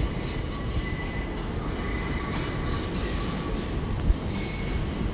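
TfL Rail Class 345 electric train running on the platform lines, a steady rumble with faint high-pitched wheel squeal. A single knock about four seconds in.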